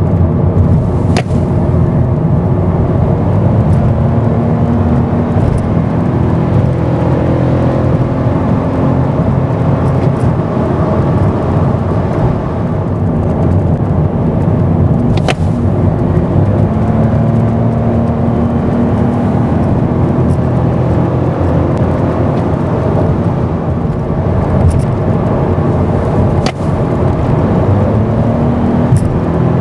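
Toyota Aqua (Prius c, second generation) driving at speed: its 1.5-litre inline-four hybrid engine runs steadily under road and tyre noise. Its tone slowly rises in pitch and drops back a few times, and a few sharp clicks are heard.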